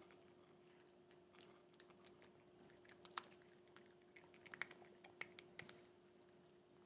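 Faint chewing and crunching of a cat eating, a scatter of soft clicks with sharper crunches through the second half, over a steady faint hum.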